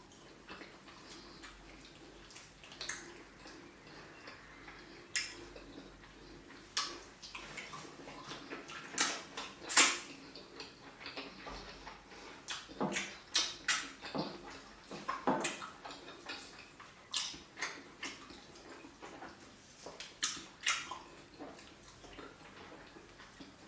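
Close-miked eating sounds of tilapia pepper soup and pounded yam: irregular wet smacks, slurps and clicks of chewing, growing busier about halfway through, the loudest a sharp smack about ten seconds in.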